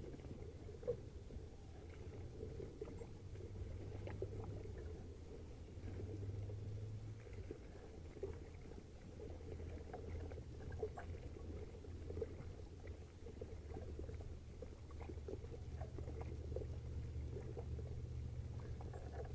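Small kayak being moved through calm water: faint scattered splashes, drips and small knocks over a low steady rumble.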